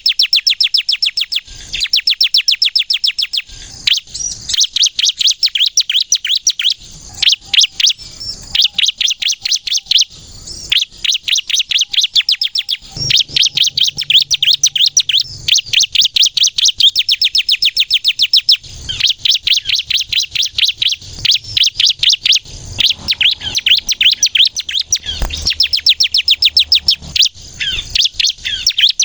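Ciblek kristal prinia singing a rapid, stuttering run of high chirps, about ten a second, in long bursts with brief pauses between them.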